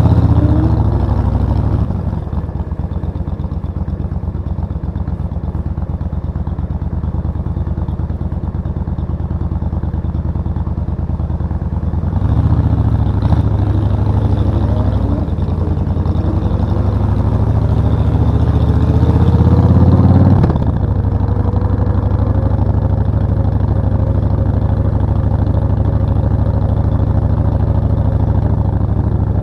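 Suzuki VS1400 Intruder's V-twin engine running under way on the road. It eases off about two seconds in and runs steady. About twelve seconds in it pulls harder, rising in pitch, until the throttle drops back sharply about twenty seconds in. It then settles into a steady cruise.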